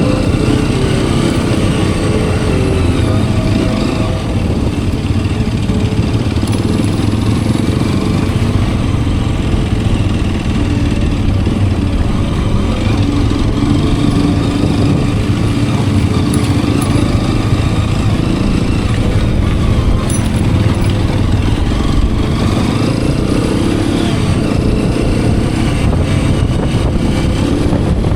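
Hero Xpulse 210's single-cylinder engine running steadily as the motorcycle is ridden, its pitch drifting gently up and down with the throttle, over a steady rush of noise.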